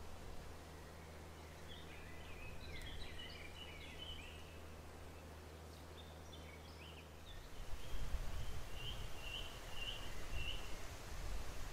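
Outdoor ambience with songbirds chirping in short bursts over a steady low hum. About seven seconds in, the hum gives way to a louder low rumble, and near the end a bird repeats one note four times.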